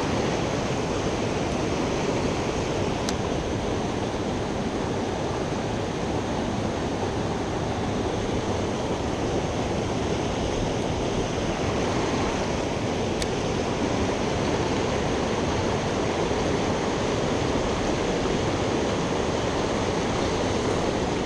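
Steady, even rush of water from a tiny creek's small waterfalls.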